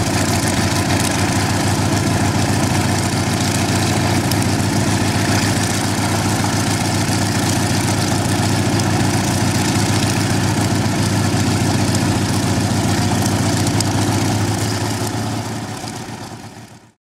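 The twin Vedeneyev M-14V-26 nine-cylinder radial engines of a Kamov Ka-26 helicopter running steadily at low power after a hard cold start. The sound fades out near the end.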